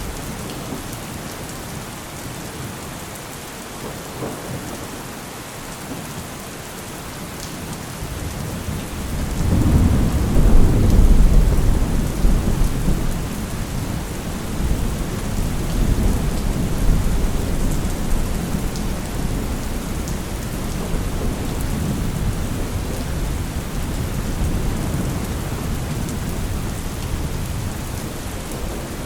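Steady rain with a long roll of thunder that builds about nine seconds in, peaks soon after and rumbles away slowly.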